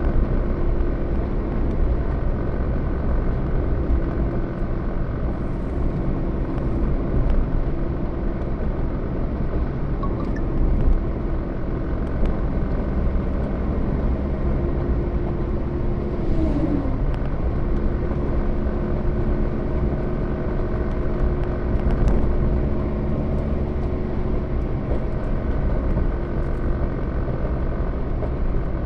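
Steady low rumble of a road vehicle on the move, with a held engine hum that drops in pitch briefly a little past halfway through.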